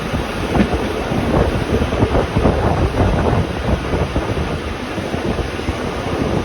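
Metre-gauge Rhaetian Railway regional train running along the track: a steady rumble with irregular rattling from the wheels and carriage, and wind noise on the microphone.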